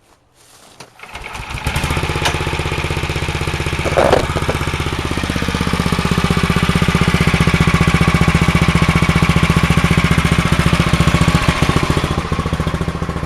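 Small gasoline engine cold-started: it catches on a pull about a second and a half in, revs briefly, then settles into steady running.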